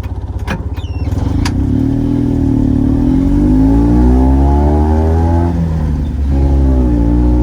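Mazda New Porter Cab PC56T kei truck engine with a one-off custom exhaust, pulling away from a low, pulsing beat and accelerating with the revs climbing, in a tunnel. The revs drop briefly about six seconds in and then climb again. Two sharp clicks sound in the first second and a half.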